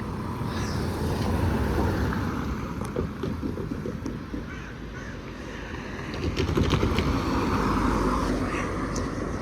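Road vehicles passing close by: two swells of engine and tyre noise, one building from about a second in and another from about six seconds in.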